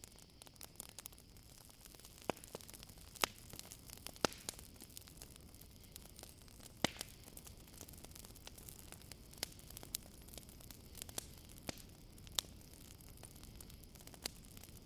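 Wood campfire crackling: irregular sharp pops and snaps over a low steady hiss, a few louder pops standing out. Behind it, a faint steady high-pitched chirring of crickets.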